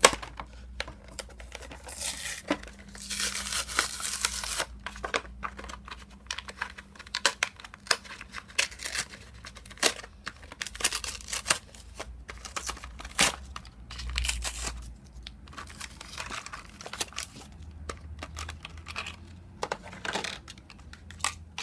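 Toy car packaging being opened by hand: cardboard and plastic blister tearing and crinkling, with irregular clicks and longer ripping stretches.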